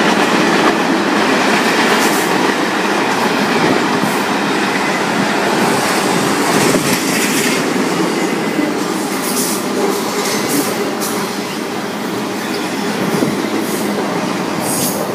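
Double-stack container freight train rolling past: a steady noise of wheels on rail, with scattered sharp clicks from the passing cars.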